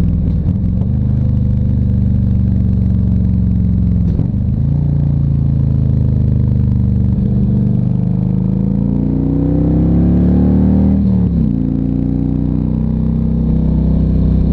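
Harley-Davidson Ultra Classic Electric Glide's V-twin engine running on the road. The engine note holds steady, breaks about four seconds in, then climbs as the bike accelerates and drops sharply at a gear change near eleven seconds before settling again.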